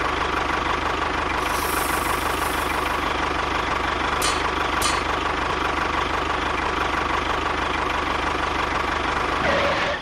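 Small engine running steadily at an even idle, with a fast regular knock, and cutting out just before the end.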